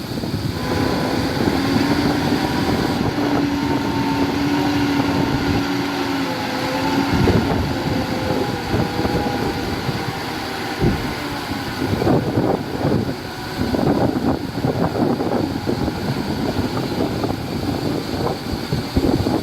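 Heavy diesel earthmoving machinery working: a steady engine hum for the first several seconds, then rougher, choppier running with knocks, and wind buffeting the microphone throughout.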